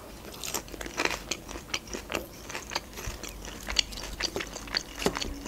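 Crisp crunching and chewing of breaded fried shrimp, close to the microphone: a run of irregular sharp crunches.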